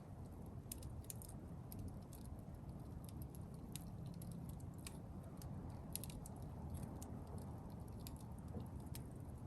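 Wood campfire crackling: scattered sharp pops and ticks over a steady low rumble.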